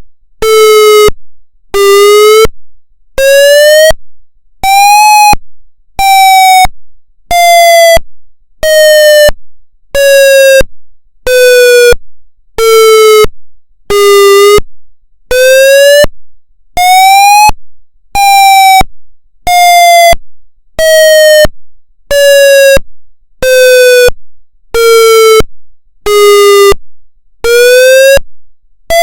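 Federal MCP siren sounding its pulse wail signal: a harsh electronic tone chopped into short pulses about every second and a half, each cut off sharply, while the pitch slowly climbs and falls in a wail about once every twelve seconds.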